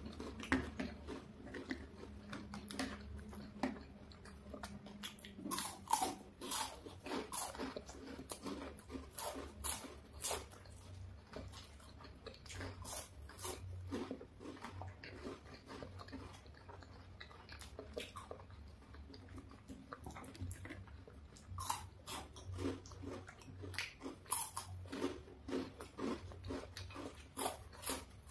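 Two people biting and chewing crunchy chocolate-coated wafer bars: a run of irregular crisp crunches and mouth sounds.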